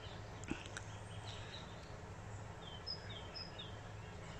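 Faint outdoor background with a few short, high bird chirps about halfway through, over a steady low hum. A single small click comes about half a second in.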